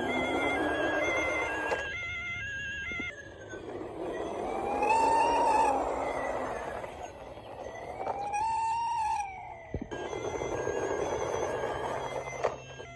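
Battery-operated toy vehicles playing electronic sound effects: a beeping electronic tune, then two slow rising-and-falling siren-like wails, over a steady whirring hiss.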